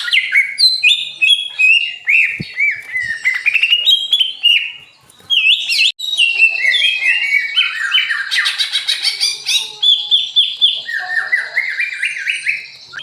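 Caged songbirds singing: a rapid, varied run of short chirps and whistled notes, with a brief lull about five seconds in before the song carries on densely.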